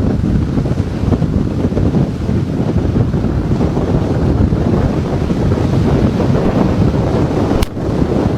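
Hurricane-force wind battering the microphone: a loud, steady, rumbling roar. A sharp click and a momentary dip in level come near the end.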